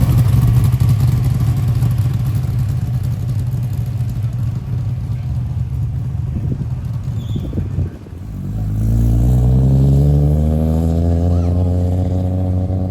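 A muscle car's engine running loudly, then a car accelerating: the engine note climbs in pitch from about eight seconds in and levels off.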